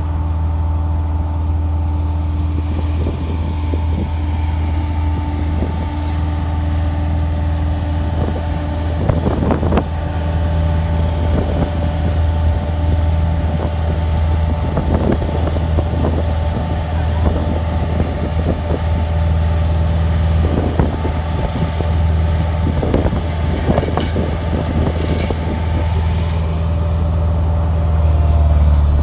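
Heavy diesel road-construction machinery running steadily with a deep, constant engine hum and a few intermittent clanks, as at an asphalt paving site where trucks feed the paver.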